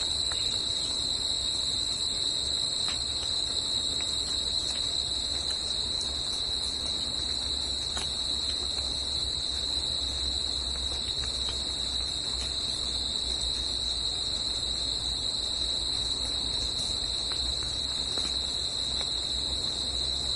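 Steady chorus of insects in a forest: a continuous high-pitched trill that never lets up, over a faint low rumble.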